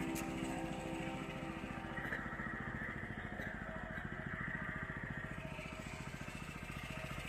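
A houseboat's engine running steadily, a fast even chugging.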